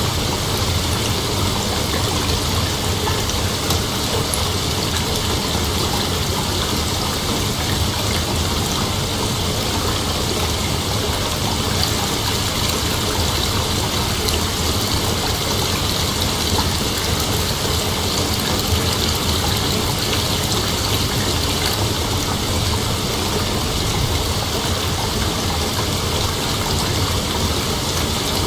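Steady night-time insect chorus over a continuous rushing hiss that stays even throughout.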